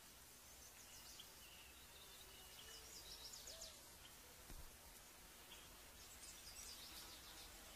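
Faint bird chirps over quiet outdoor background: a few short, high notes, then brief clusters of rapid chirps about three seconds in and again about six seconds in.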